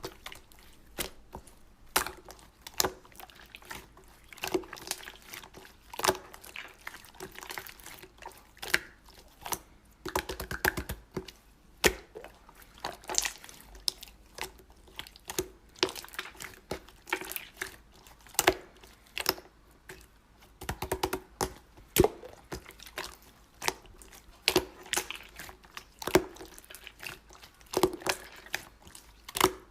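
Slime being squished and poked by hand, making irregular sticky clicks and small wet pops about once or twice a second.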